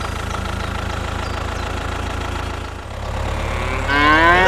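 Small engine idling steadily with an even low rumble. Near the end a cow moos with a rising, then falling call.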